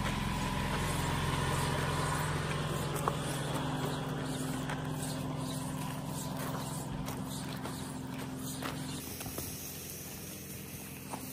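Car engine running with a steady low hum, heard from inside the car. The hum drops and changes about 9 seconds in, with a few faint ticks over it.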